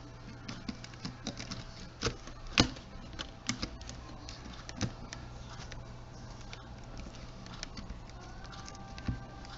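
Irregular small clicks and taps of plastic camcorder housing parts being handled and fitted together, with one sharper click about two and a half seconds in, over a steady low hum.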